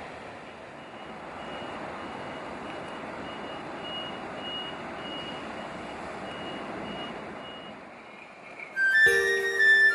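A vehicle's reversing beeper sounds faintly, a high beep repeating about twice a second, over a steady rushing background noise. Background music with flute-like notes starts about nine seconds in.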